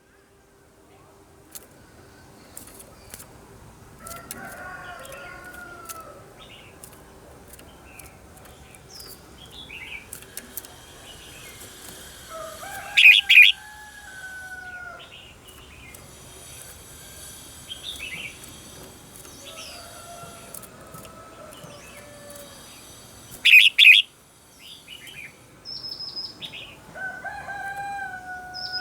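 Red-whiskered bulbuls singing, with two loud short phrases and scattered chirps between them. A rooster crows in the background four times, each crow drawn out over about two seconds.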